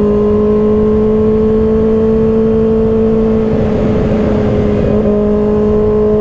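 Kawasaki ZX-6R's inline-four engine through an M4 aftermarket exhaust under hard acceleration, a steady high drone that climbs slightly in pitch, over wind rush. The pitch changes a little about five seconds in.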